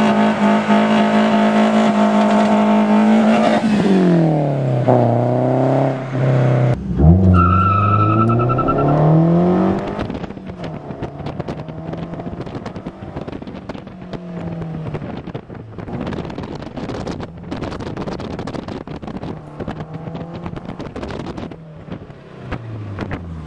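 Scion tC four-cylinder engine through a Skunk2 aftermarket exhaust, held at high revs against the rev limiter for about three and a half seconds, then dropping and rising again. About seven seconds in it revs up under a short weak burnout, with tyre squeal for a couple of seconds. It then settles to lower, uneven revs with crackling from the exhaust for the rest of the time.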